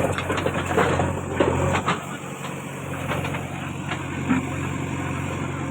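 Heavy diesel engine running steadily, with a burst of clatter and knocks in the first two seconds.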